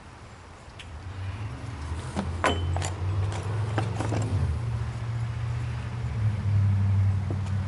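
Sears Craftsman bench grinder's electric motor switched on, humming steadily from about a second in, freshly fitted with new bearings. Several light metallic clinks sound over it in the first half.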